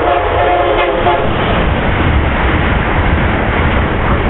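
Amtrak train's horn sounding a steady chord that cuts off about a second in, followed by the loud rush and rumble of the train passing close alongside the platform.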